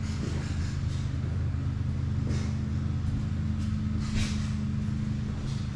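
An engine running steadily with an even low hum, with a couple of brief hissing sounds over it.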